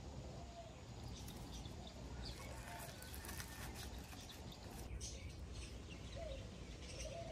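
Faint bird calls: short low coos that rise and fall, repeated several times, with scattered higher chirps.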